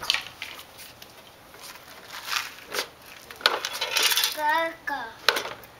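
Small rocks and toy trucks clattering and clinking in irregular knocks. A child's high-pitched voice comes in briefly near the end.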